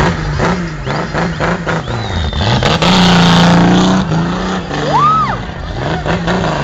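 Car engine revving hard and unevenly, its pitch repeatedly climbing and dropping, held high for about a second around the middle, as in a drift run. About five seconds in, a short high squeal rises and falls.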